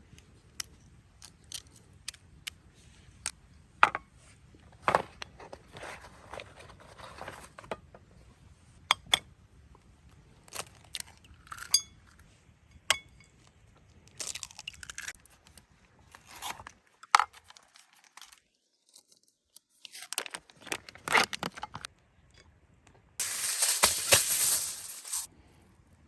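Objects being handled up close: scattered sharp clicks and clinks among short crinkling and rustling noises, with a longer, louder rustle near the end.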